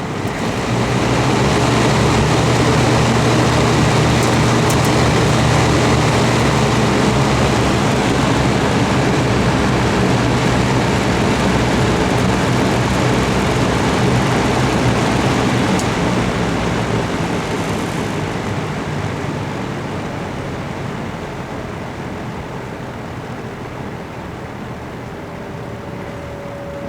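Vintage all-metal Kmart box fan starting up on high: the motor hum and blade air rush build over the first two seconds, then run steadily. After a click about two-thirds of the way through, the fan slowly winds down toward low speed, the sluggish motor of a fan that needs oiling.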